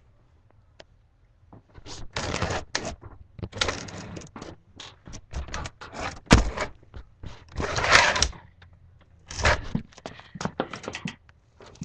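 Irregular rustling and clattering handling noises, with a sharp knock about six seconds in.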